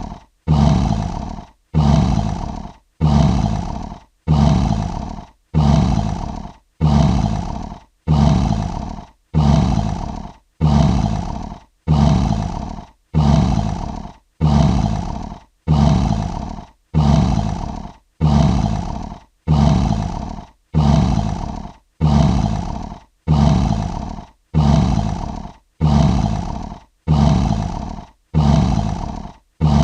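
Lion roaring: the same short roar repeated about once a second, each one starting loud and fading before a brief gap, identical every time.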